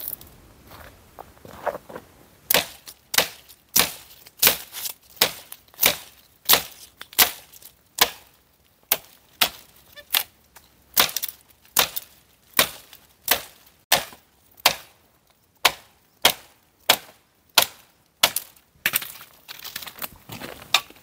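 Dry wood being chopped with a blade: a steady run of sharp chopping strokes, about three every two seconds, starting a couple of seconds in and thinning out near the end.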